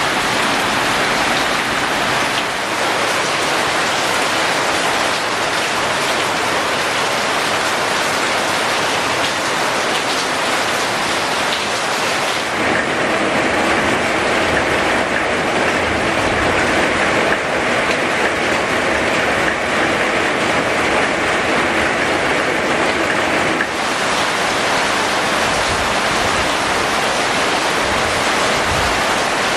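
Steady rain falling; its sound changes abruptly about halfway through and changes back a few seconds before the end.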